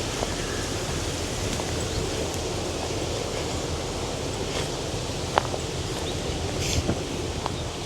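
Strong wind buffeting the microphone in a steady rumbling rush, with rustling and a few sharp clicks, the clearest about five and a half seconds in.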